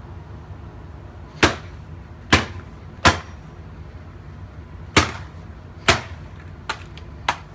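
A Nikon DSLR camera being smashed: sharp, separate blows about a second apart, five hard strikes and then two lighter ones near the end.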